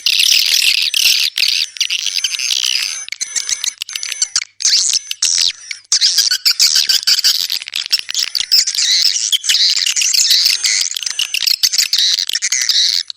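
Swiftlet calls: a dense, continuous mass of high chirps and twitters, broken by short gaps about four and a half and six seconds in. This is the kind of swiftlet sound played to lure swiftlets into nesting houses.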